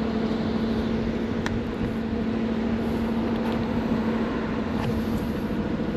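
Steady motor hum with a constant low tone over a noise haze, unchanging throughout.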